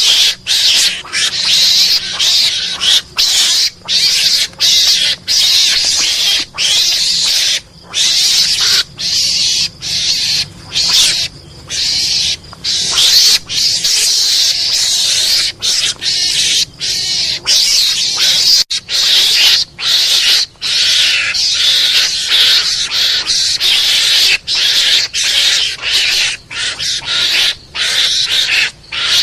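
Mongoose calls used as a hunting lure: a harsh, noisy screeching repeated over and over, broken by many short gaps.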